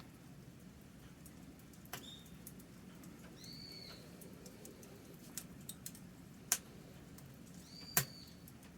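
Wood campfire crackling: scattered sharp pops over a low steady rumble, two louder pops in the second half, and a few short high squeaks.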